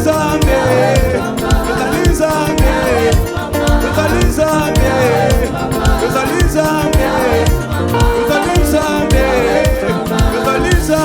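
Worship band music with a steady drum beat and bass under a wavering lead melody.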